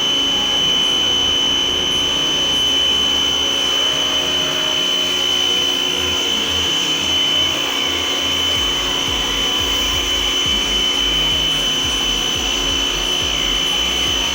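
Tecna electric pressure washer running steadily under load, its motor and pump giving a constant high whine.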